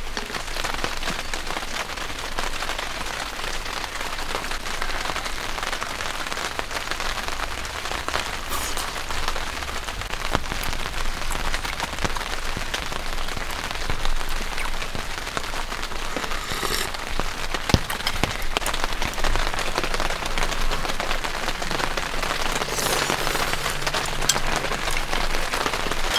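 Heavy rain falling steadily: a dense, even hiss of countless drops. One sharp click stands out about eighteen seconds in.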